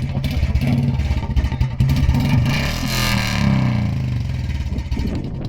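Royal Enfield Bullet 350 Standard (BS6) single-cylinder engine with a modified exhaust, revved with the throttle to a peak about three seconds in, then dropping back to its even idle beat near the end.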